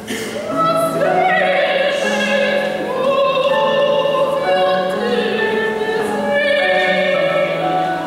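Choir singing a slow classical sacred piece in long held notes that shift pitch every second or so.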